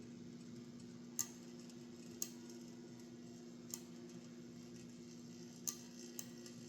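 Faint steady electrical hum, with five sharp irregular clicks over it.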